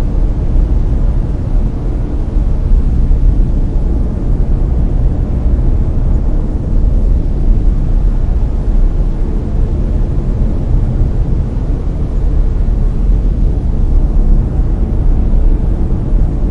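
Layered brown noise: a steady, deep rushing hiss, heaviest in the low end, without changes.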